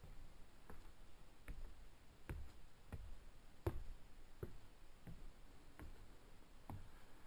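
Footsteps on bare wooden stairs and floor: a steady walking pace of dull thumps, about one every three-quarters of a second, the loudest a little before halfway.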